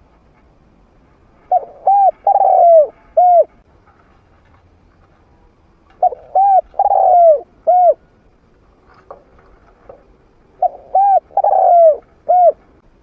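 Spotted dove cooing: three phrases, each a run of four arched coos, a few seconds apart.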